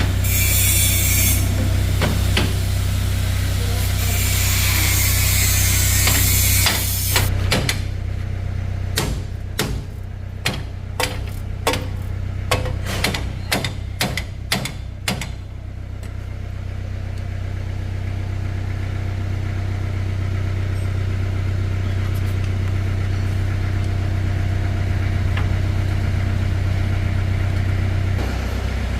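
An engine running steadily throughout. A loud hiss covers the first seven seconds, then about a dozen sharp metal knocks, like hammer blows, come between about 7 and 15 seconds in.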